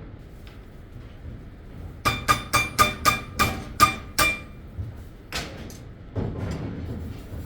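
A hammer striking metal: a quick run of about eight ringing blows, then one more after a short pause. A rougher, duller noise follows near the end.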